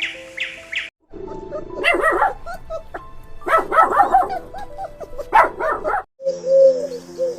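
A dog barking and yipping in several quick clusters, over background music.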